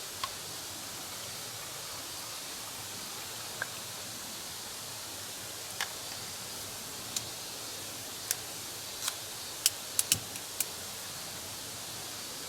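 Wood campfire crackling: a steady soft hiss with scattered sharp pops, which come thicker about two-thirds of the way in.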